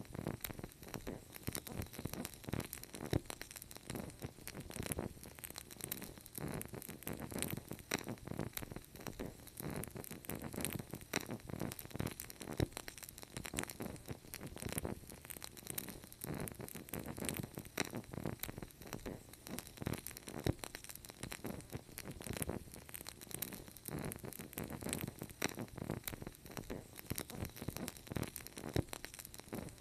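Wood fire crackling steadily, with dense irregular pops and snaps over a low rumble of burning.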